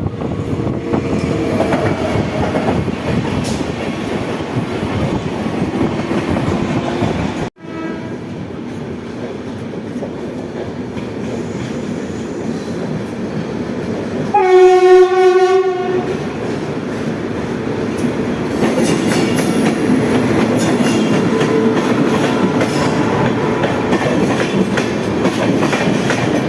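Indian Railways train hauled by a WAP7 electric locomotive, running on the rails with steady wheel and rail noise, broken off suddenly about a third of the way in. About halfway through, the locomotive gives a single steady horn blast of about a second and a half, the loudest sound here.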